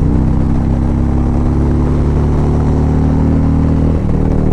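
Harley-Davidson V-twin motorcycle engine running steadily at speed; its pitch drops abruptly near the end.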